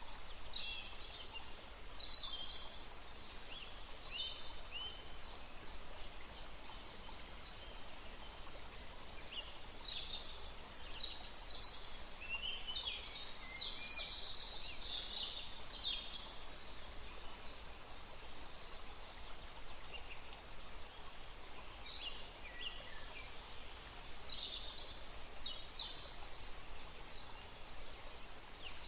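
Woodland ambience: several small birds chirping and calling in flurries over a steady background hiss, busiest in the middle and again near the end.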